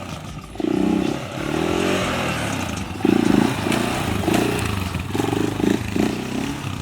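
Off-road motorcycle or quad engine revving in repeated bursts, with the pitch rising and falling between blips.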